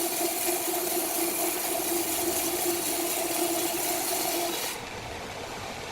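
Sawmill machinery running steadily, a constant hum with a steady whine over hiss. It drops off abruptly near the end to quieter background noise.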